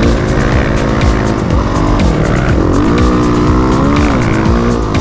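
Dirt bike engine being ridden hard, revving up and easing off. Its pitch climbs about three seconds in, then drops back.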